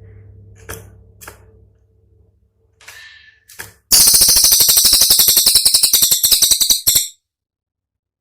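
Cililin song from a tutor recording: a few short, sharp chirps over a faint low hum. Then, about four seconds in, a loud rapid-fire rattle of sharp notes, roughly a dozen a second, held for about three seconds before it cuts off suddenly.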